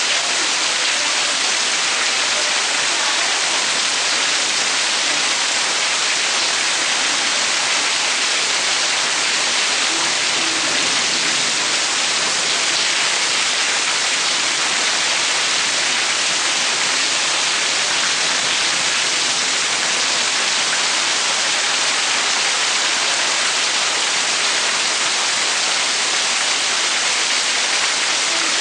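Steady heavy monsoon rain falling, an even hiss of countless drops with no breaks.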